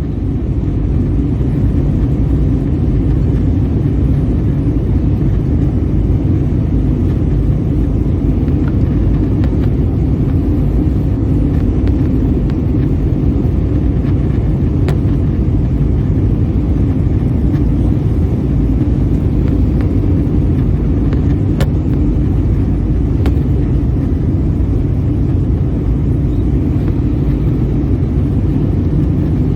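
Steady in-flight cabin noise of an Airbus A320: a loud, even, low rumble of engine and airflow heard from a rear window seat.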